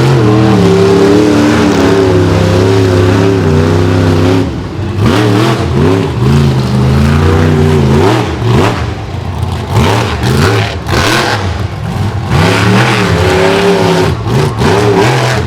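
Monster truck engine revving hard: held at high revs for about the first four seconds, then blipped up and down again and again.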